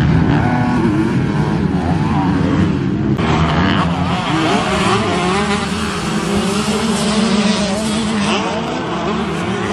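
Motocross bike engines running hard, their pitch rising and falling as they rev over a steady engine drone.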